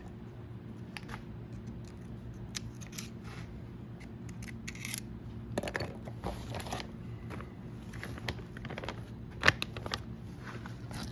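A hand tool scraping and picking at an old polyurethane wiper seal to pry it out of a hydraulic cylinder's end cap: scattered small clicks and scrapes, the sharpest click about nine and a half seconds in, over a low steady hum.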